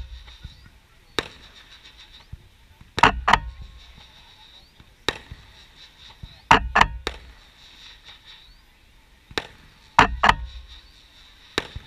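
Fireworks shells bursting: about eleven sharp bangs, several coming in quick pairs or threes, many followed by a short low rumble.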